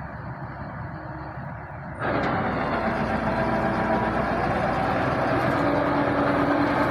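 Combine harvester running with a steady mechanical drone. About two seconds in it suddenly gets much louder and fuller, then holds steady.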